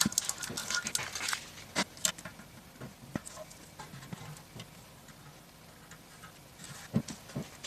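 Masking tape being peeled off a freshly painted fuel tank: a quick run of crackling rips over the first couple of seconds, then scattered softer crackles, with two soft knocks near the end.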